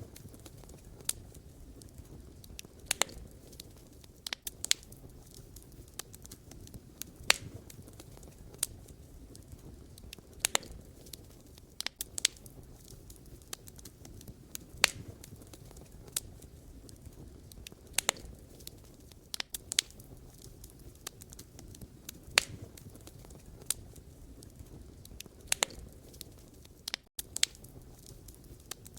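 Wood fire crackling: sharp irregular pops and snaps of burning firewood, a few every couple of seconds, over a low steady rumble of the flames.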